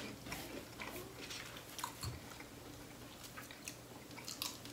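A person chewing fried chicken close to the microphone, with a scatter of faint, short mouth clicks and small crackles as the chicken is torn apart by hand.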